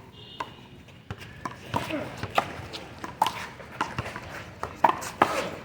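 One-wall handball rally: a small rubber handball is slapped by hands and smacks off the wall and court in a quick series of sharp hits, with players' voices among them.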